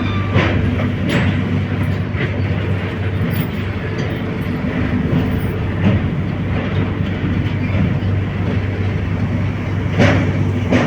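Steady rumble of a moving vehicle, with a constant low hum and a few sharp knocks at uneven intervals, the loudest near the end.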